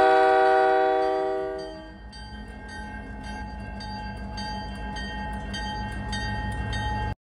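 A diesel locomotive's multi-note air horn chord fades out. A railroad crossing bell then rings steadily with quick, even strikes over the low rumble of the approaching locomotive, and all of it cuts off suddenly just before the end.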